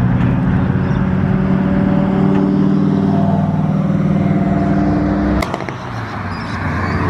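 Car engine and exhaust running at steady revs, holding one pitch, then dropping away abruptly with a sharp click about five seconds in; engine sound builds again near the end.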